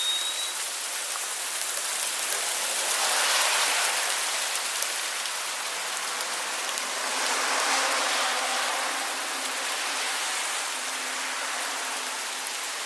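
Hail falling steadily on surfaces: a dense patter of fine ticks over a constant hiss. It swells twice, briefly heavier about three seconds in and again about seven seconds in.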